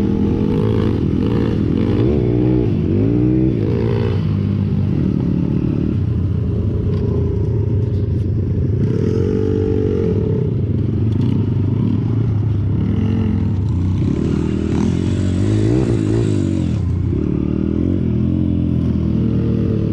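Pit bike engine running under way, its pitch repeatedly rising and falling as it revs up and eases off.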